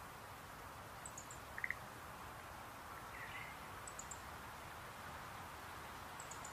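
Schlegel's green tree frogs calling: a short rattling croak about a second and a half in, the loudest sound, and another about three seconds in, over a steady soft hiss. Faint high chirps repeat every two to three seconds.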